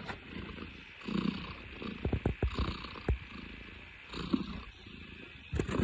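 Domestic cat purring close up, the purr swelling and fading with each breath, with a few sharp knocks around the middle.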